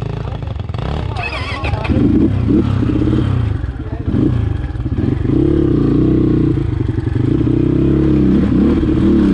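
Dirt bike engine revving up and down under throttle, getting louder about two seconds in, with some clatter.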